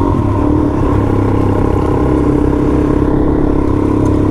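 Suzuki DRZ400 single-cylinder four-stroke dirt bike engine running under way, its pitch shifting briefly at the start and then holding steady.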